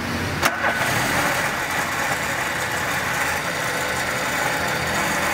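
Volkswagen Polo 1.6 petrol engine just started and idling steadily after an intake and fuel-hose repair, with a sharp knock about half a second in. The running noise is one the mechanics trace to the gearbox, since it stops when the clutch is pressed.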